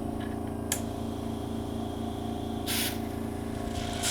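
Agilent BioTek 405 TS microplate washer running a wash protocol: a steady mechanical hum, with a click a little under a second in and short bursts of hiss about three seconds in and again near the end.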